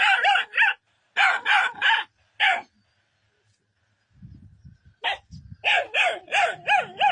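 Dog barking in fast volleys of short barks, aggressive barking at a lion that it is driving away. The barking pauses from about three seconds in to five seconds in, and a low rumble sounds during the pause.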